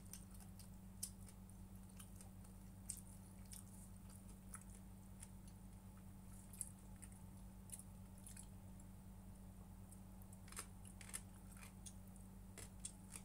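Faint eating sounds: quiet chewing with scattered small clicks and crunches, every second or so, over a steady low electrical hum.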